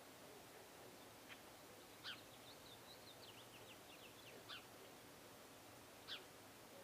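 Faint small-bird calls: three short, sharp chirps a couple of seconds apart, with a quick twittering run of short high notes between the first two, over a steady background hiss.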